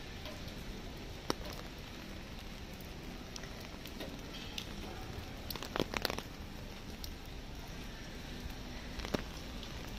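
Steady light rain on a street, with scattered sharp ticks of drops: one about a second in, a short cluster around six seconds in and another near the end.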